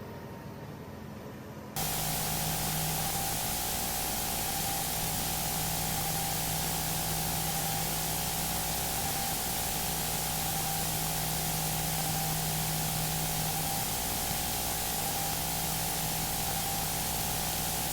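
Steady radio static hiss with a faint hum, cutting in suddenly about two seconds in, as on an open airband radio channel between transmissions.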